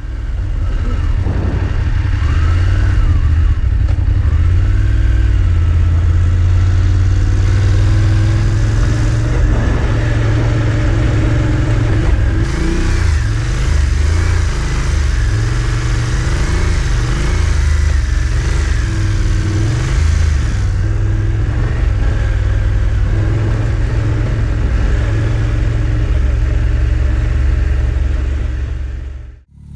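Adventure motorcycle engine running as the bike is ridden along a dirt track, its pitch rising and falling with the throttle over a heavy low rumble.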